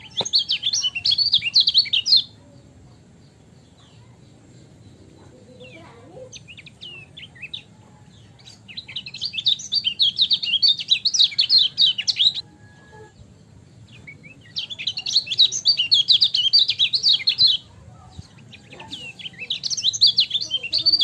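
Kecial kuning, a white-eye, singing four bursts of rapid, high twittering song a few seconds apart, with a few soft single chirps in between.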